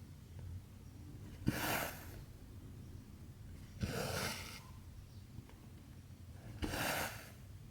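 Cross-stitch needle piercing 14-count fabric and cotton thread drawn through it, three times about two and a half seconds apart. Each stitch is a sharp tick followed by a short rasping pull of thread.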